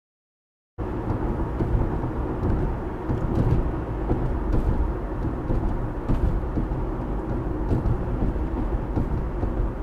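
Steady low rumble of road and engine noise from a car driving, cutting in abruptly after about a second of dead silence.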